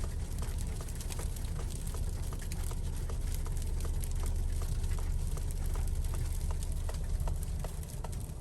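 Steady low rumble inside the cabin of a 2021 Ford Explorer ST driving slowly through snow, with scattered light ticks throughout.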